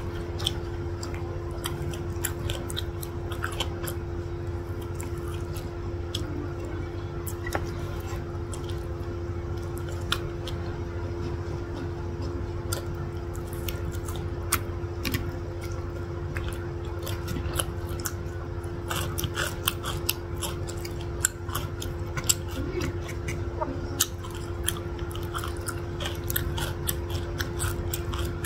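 Close-miked chewing and biting of sauce-coated chicken and beef satay pulled off bamboo skewers, with many small wet clicks of the mouth scattered throughout. A steady low hum runs underneath.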